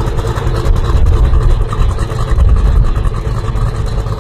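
A muscle car's V8 engine running loudly with a deep, low rumble that swells and dips as it is revved.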